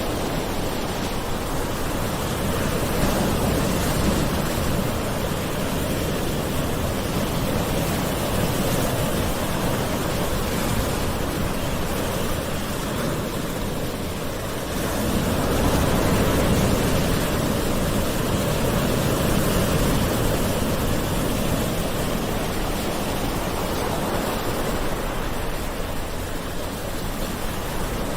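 Calm ocean waves washing ashore: a continuous surf hiss that slowly swells and eases, with a louder swell about halfway through.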